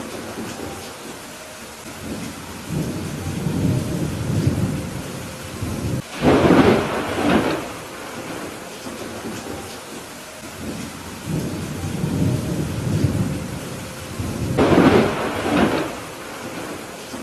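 Steady rain falling through a thunderstorm, with thunder rumbling low and two louder cracks of thunder, about six seconds in and again near the end.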